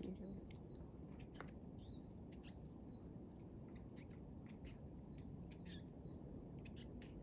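Small birds chirping: many short, high, sharp calls in quick succession over a faint low background rumble.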